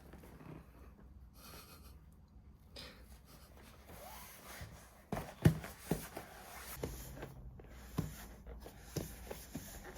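Quiet room, then from about halfway through a scattering of irregular soft thumps and taps from a year-old baby moving about, the loudest a sharp knock just after the middle.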